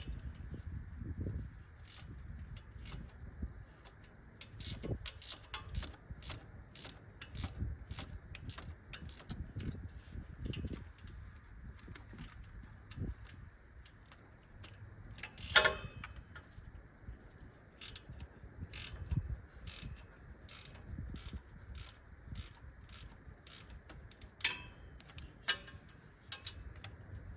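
Socket ratchet clicking repeatedly in short runs as the 14 mm exhaust header bolts are backed out, with one loud metallic clank about halfway through.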